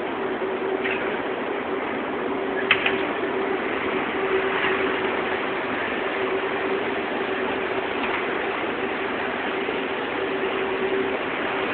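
Automatic fabric spreading machine running: a steady mechanical hum with a constant motor tone, and a couple of sharp clicks about three seconds in.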